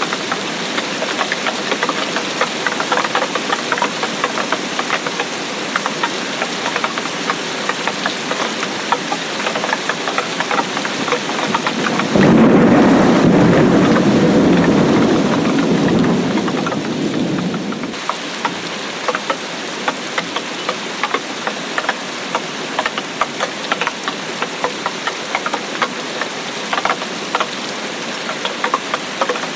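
Steady heavy rain, many separate drops ticking, with a roll of thunder that comes in suddenly about twelve seconds in and dies away over some six seconds.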